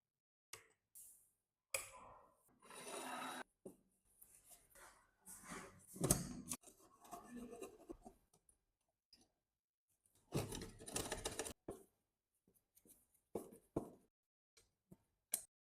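Hand work on metal typewriter parts: irregular spells of scraping and rubbing, each a second or two long, with a few sharp clicks between them.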